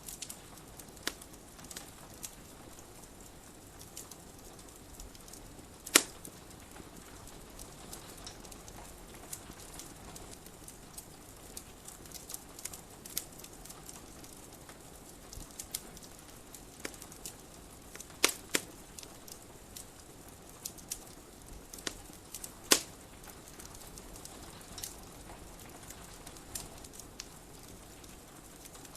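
Wood fire crackling in a fireplace: irregular sharp pops and snaps over a faint steady hiss, with a few much louder cracks among them.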